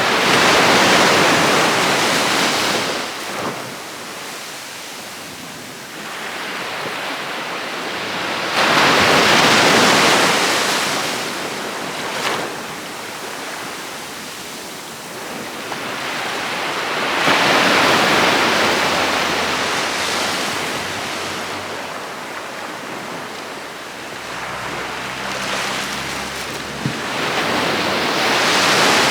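Sea waves breaking and washing up a beach. Each surge swells and then fades over several seconds, four times, about eight to nine seconds apart.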